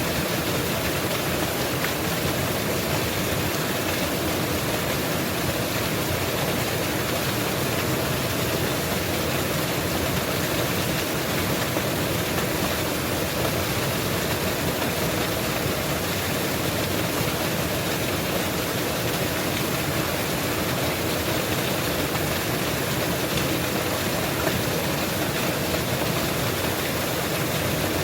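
Mountain waterfall: a steady rush of falling water, even in level throughout.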